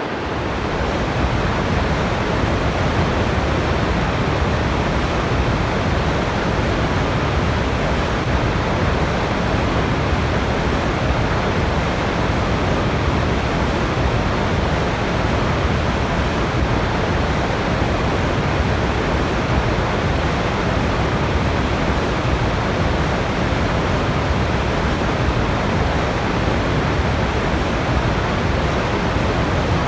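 Waterfall: a steady, dense rush of falling water, deep and even, with no breaks.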